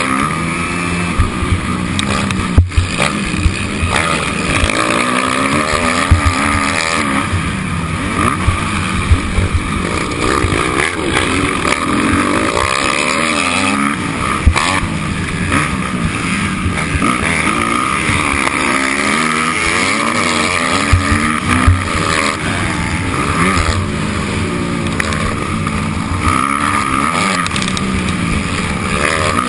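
Motocross motorcycle engine revving hard and easing off again and again, its pitch climbing and falling with throttle and gear changes, with a few sharp knocks.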